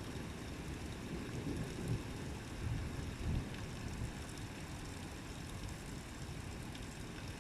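Steady rain falling, an even hiss with a few faint drop ticks, over a low rumble that swells briefly two or three times in the first half.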